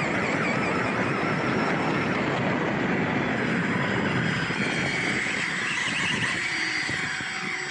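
1/4-scale Losi Promoto-MX electric RC motorcycle running: a steady whine from the motor and drivetrain over a rough rattle and hiss of tyres on the ground, easing off a little near the end.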